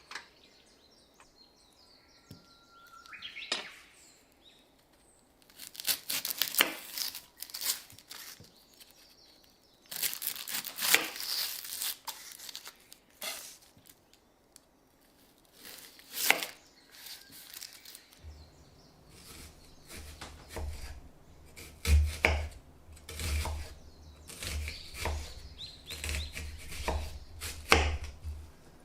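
Kitchen food-preparation sounds: scattered sharp knocks and short rustling, scraping bursts, with a low steady hum joining partway through.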